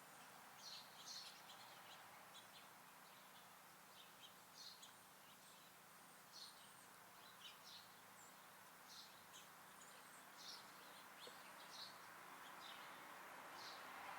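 Small songbirds at a feeder giving faint, short, high chirps, irregular, about one every second, over a steady faint background hiss.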